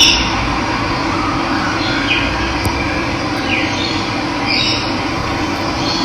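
Steady rush of running water, with a bird giving several short, high calls that fall in pitch, a second or two apart.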